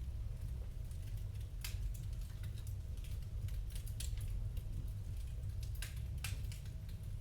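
Wood fire crackling in a fireplace: a few scattered sharp pops and snaps over a low, steady rumble.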